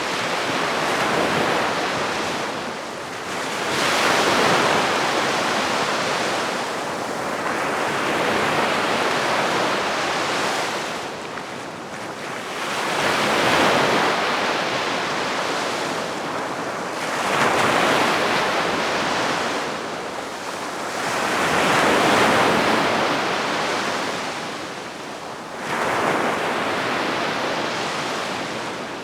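Calm sea waves washing onto the shore. Each wave swells into a hiss and falls away, about every four seconds.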